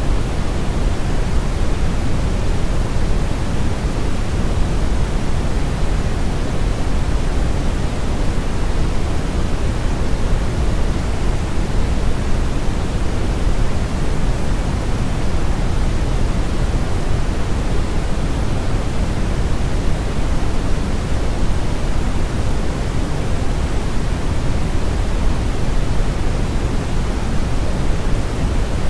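Synthetic brown noise: a steady, deep rushing hiss with most of its energy in the lows and the highs rolled off, unchanging throughout.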